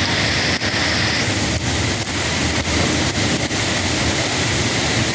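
Heavy rain falling in a steady downpour: a constant hiss with faint drop ticks scattered through it.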